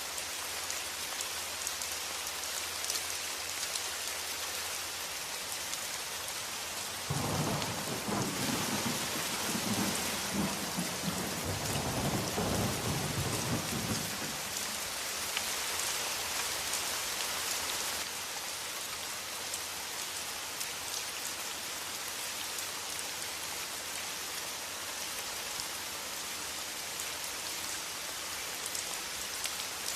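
Steady rain with a roll of thunder that breaks in suddenly about a quarter of the way in, rumbles low for several seconds and fades back into the rain.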